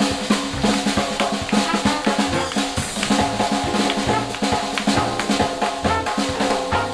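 Jazz band playing live, with a drum kit (snare and bass drum) driving a steady beat under pitched instruments.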